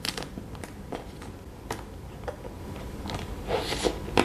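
Chewing and crunching an ice cream bar's chocolate coating, which is studded with small crisped rice: scattered small crackles and clicks, thickening into a denser patch of mouth sounds near the end.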